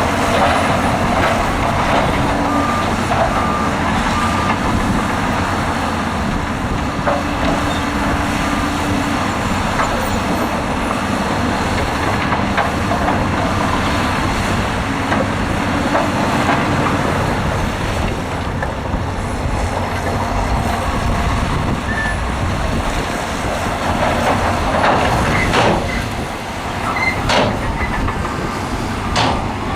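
Heavy earthmoving machinery at work: large diesel engines running steadily under load, with a few sharp knocks near the end.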